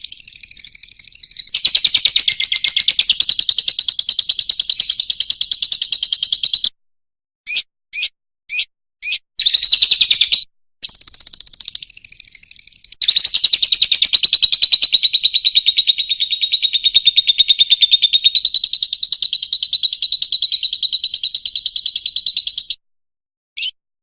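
Fischer's lovebird singing: long runs of rapid, high chattering warble. About seven seconds in the song breaks off into a few short separate chirps, then resumes; it stops abruptly near the end.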